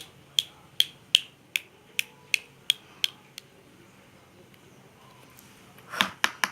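A run of sharp, evenly spaced clicks, about two or three a second, that stops a little past the middle; near the end a louder rustling burst followed by a few more clicks.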